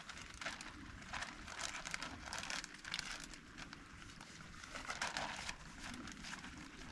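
Irregular rustling and crinkling, as of something being handled, in uneven bursts.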